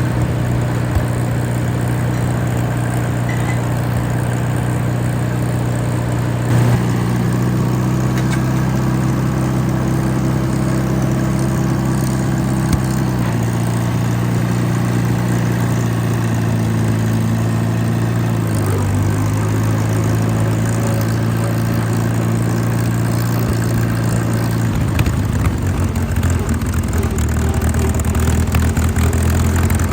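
Allis-Chalmers WD tractor's four-cylinder engine running, its speed shifting in steps a few times and turning rougher near the end.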